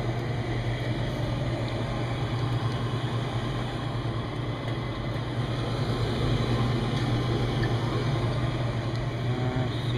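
Rooftop HVAC unit running with a steady mechanical hum and a strong constant low drone.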